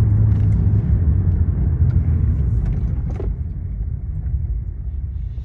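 Muffler-deleted exhaust of an Acura TL V6: a deep rumble with a drone under hard acceleration, easing off about three seconds in.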